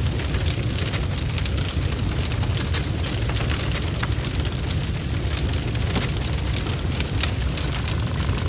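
Wood fire burning with dense, irregular crackling and popping over a steady low rumble of the flames.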